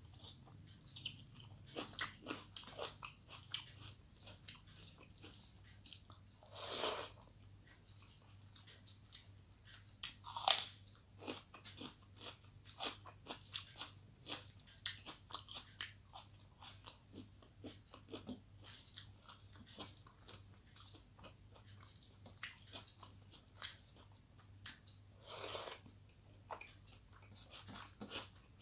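Close-miked eating sounds: a person chewing and biting food, with many small wet clicks and crunches as rice and fried vegetables are eaten by hand. Three louder, longer rushes stand out, about 7, 10 and 25 seconds in, the one near 10 seconds the loudest, over a faint steady low hum.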